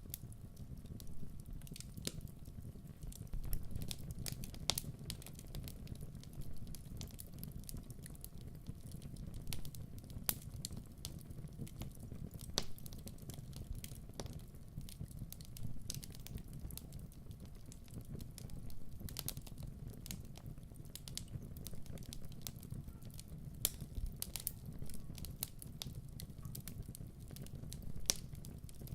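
Crackling fire: a steady low rumble of burning with irregular sharp crackles and pops throughout, a few louder pops standing out.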